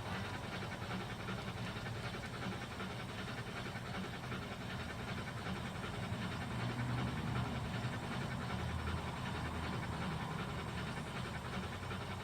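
G scale three-truck Shay model locomotive running on its track: a steady, rapid rhythmic chuffing over the low hum of its motor and gears.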